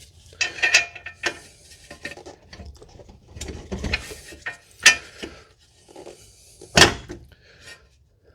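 Scattered metallic clinks, knocks and scrapes of tools and suspension parts as the lower control arm is levered down and a ball joint bolt is worked in. Two sharp knocks stand out, about five and seven seconds in.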